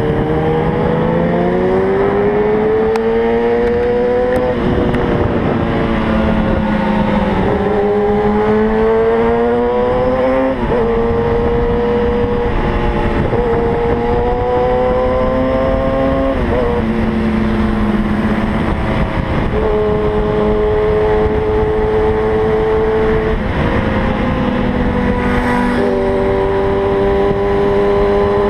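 Kawasaki ZX-6R inline-four sport-bike engine pulling at highway speed, its pitch climbing and then dropping sharply about eight times as the rider opens and closes the throttle, over steady wind rush on the microphone.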